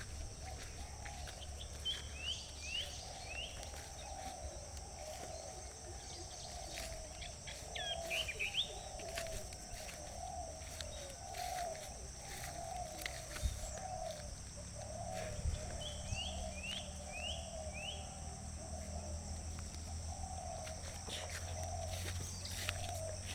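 Birds calling outdoors: three runs of three or four short, quickly repeated falling chirps, over a continuous wavering chorus and a steady high drone.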